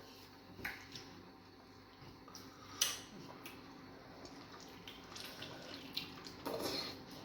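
Wet eating sounds of fufu and egusi soup being eaten by hand: scattered smacks and sharp wet clicks, the loudest about three seconds in, with a busier run of them near the end.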